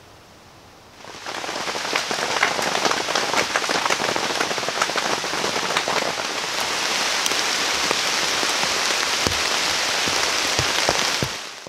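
Heavy rain falling steadily, a dense patter of individual drops. It starts about a second in and fades out near the end.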